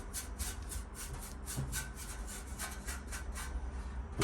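A brush scrubbing on bare metal in quick back-and-forth strokes, about four a second.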